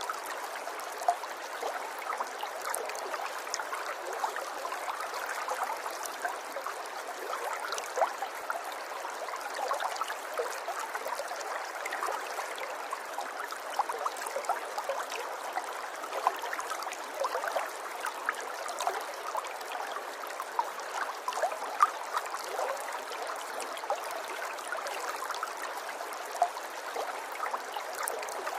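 River water running steadily over stones, with constant trickling and many small bubbling splashes.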